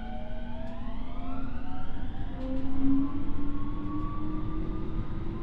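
Hitachi IGBT VVVF inverter and traction motors of a Keio 9000 series electric train whining as the train accelerates, heard from inside the car. Several tones sweep upward over the first two seconds, then a steadier tone keeps climbing slowly in pitch.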